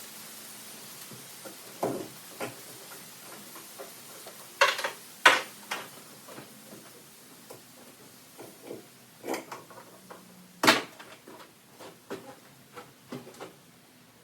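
Scattered sharp knocks and clanks of hard objects being handled, with two loud ones about five seconds in and another single loud knock near eleven seconds.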